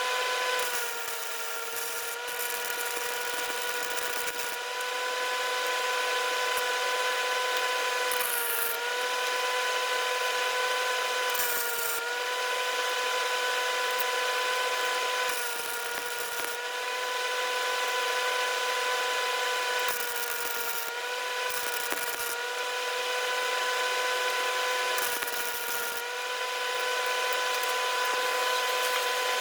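A high-speed power tool motor running with a steady whine that sags briefly in pitch every few seconds as it is loaded, with scratchy grinding noise coming and going.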